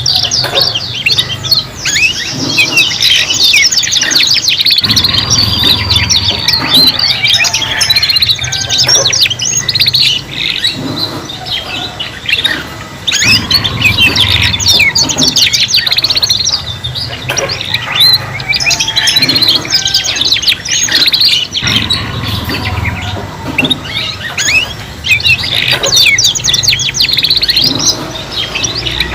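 Several young domestic canaries singing at once in a dense, unbroken stream of rapid trills and chirps, juveniles still learning their song.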